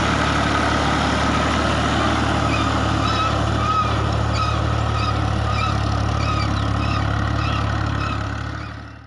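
Fiat 480 tractor's diesel engine running steadily under load, with a short high chirp repeating about twice a second from a few seconds in; the sound fades out near the end.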